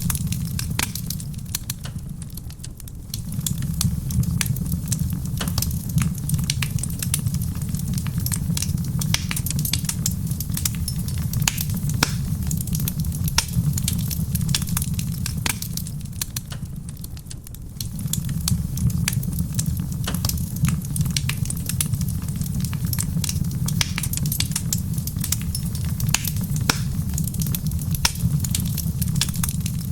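Wood fire crackling in a stone fireplace: a dense run of sharp pops and snaps over a low steady rumble, which dips briefly twice.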